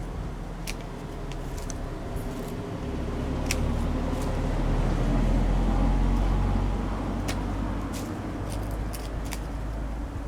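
A vehicle passing by: a low rumble that swells to a peak about halfway through and then fades, with a few sharp clicks over it.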